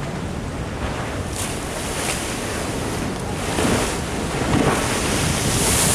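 Ocean surf washing against a sea wall, with wind buffeting the microphone. The rush of water swells louder about three and a half seconds in and again near the end.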